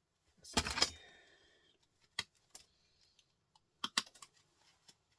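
Small metal and plastic printer parts clattering as they are handled and tossed into a bucket: a louder clatter about half a second in with a brief metallic ring, then scattered light clicks.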